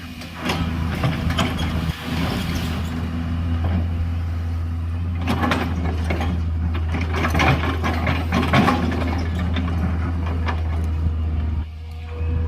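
Excavator's diesel engine running steadily, with bouts of clanking and scraping from the machine at work, busiest between about five and nine seconds in. The drone drops out briefly near the end.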